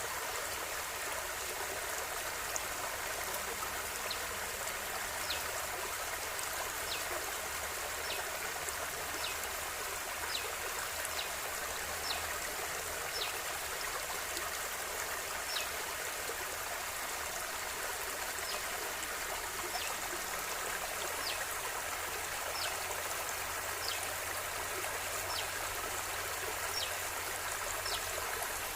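Flowing river water rushing and trickling steadily, with a short, faint high note recurring about once a second.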